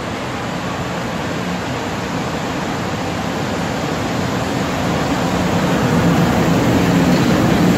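PKP Intercity EP09 electric locomotive and its train rolling past at close range: a steady, low rumble of wheels on rail that grows louder in the second half as the train draws alongside.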